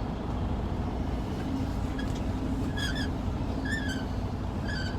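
Semi truck's diesel engine idling with a steady low rumble, with three short high chirps about a second apart near the end.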